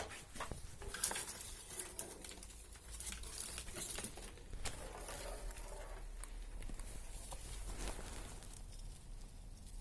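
Small kindling fire of cotton wool with vaseline and thin sticks, crackling with scattered light clicks and snaps.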